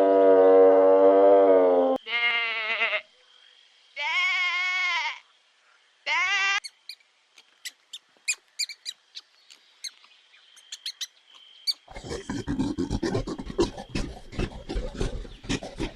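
An animal bleating: a long wavering call, then three shorter bleats with a quavering pitch. A run of scattered clicks and a dense crackly rattle follow.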